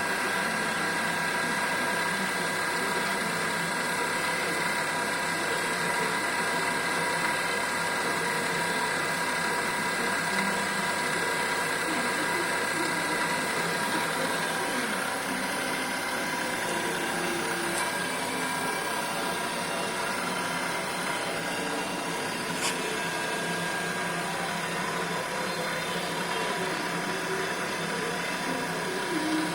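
Electric motor fitted in place of a Honda engine, running at a steady speed: a constant whine of several high tones over a mechanical hum.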